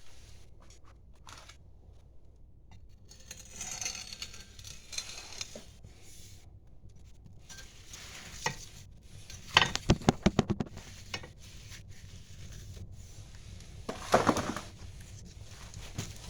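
Wood fire crackling in a hearth, with scattered pops, a quick run of sharp snaps about ten seconds in, and a brief hissing rush a few seconds later.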